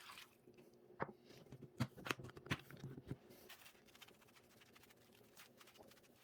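A few light knocks and clicks of objects being handled, clustered between about one and three seconds in, then fainter scattered ticks over a faint steady hum.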